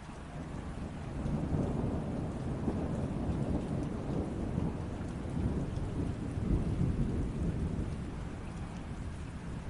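Steady rain with a long, low roll of thunder that builds about a second in and slowly fades toward the end.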